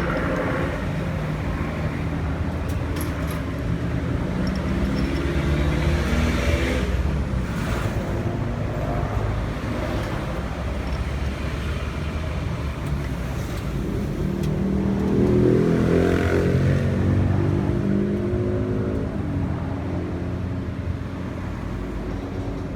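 Car engine running, its pitch rising and falling, with road noise.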